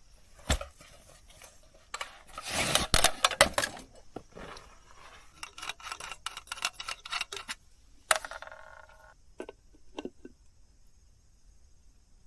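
Small objects being handled by hand: a rustle, then scattered clicks and taps, and a short ringing clink about eight seconds in.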